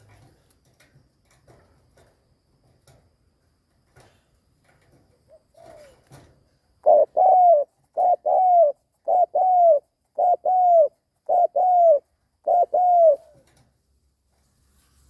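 Spotted dove cooing: six two-part coos in a steady rhythm, about one a second, each a short note followed by a longer arched note that rises and falls. Faint scattered ticks come before the cooing starts, about halfway through.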